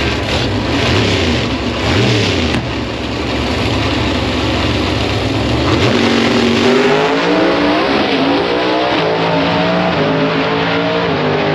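Drag race car engine running loud, then from about six seconds in its pitch climbs as it revs and accelerates.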